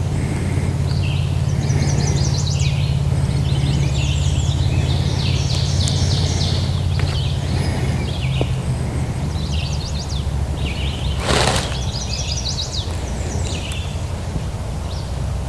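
Several songbirds singing in short, repeated chirping phrases over a steady low rumble. About eleven seconds in there is one brief scuff.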